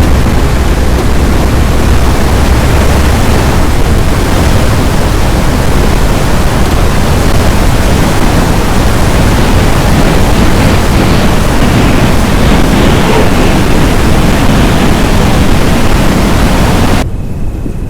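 Loud, steady rushing noise of storm wind and rain. It drops off suddenly near the end.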